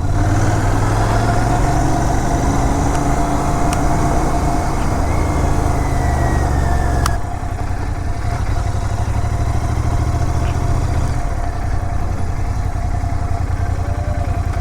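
Motor vehicle engine running steadily while driving, a low pulsing rumble under road noise. About seven seconds in there is a short click, and the sound then drops a little in level.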